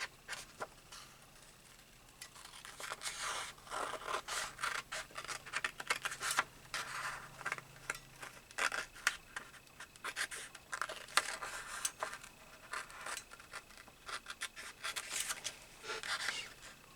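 Scissors cutting a shape out of watercolour paper: a run of short, irregular snips and paper scratches, starting a couple of seconds in.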